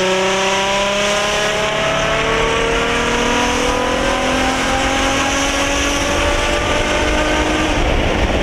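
Infiniti G35's 3.5-litre V6 through a new, stupid loud exhaust setup, accelerating in one long pull, its note climbing steadily in pitch with a brassy, trumpet-like tone.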